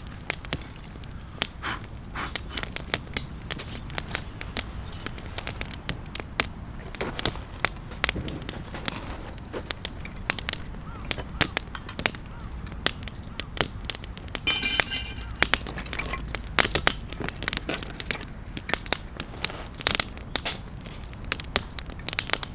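Newly lit wood campfire crackling, with irregular sharp pops and snaps as it catches. A brief louder hiss about two-thirds of the way through.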